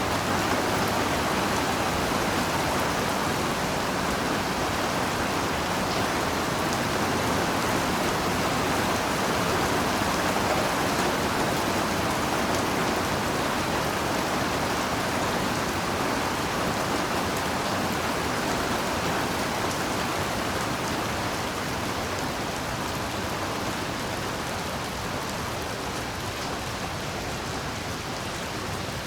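Heavy rain falling steadily, an even hiss that eases slightly near the end.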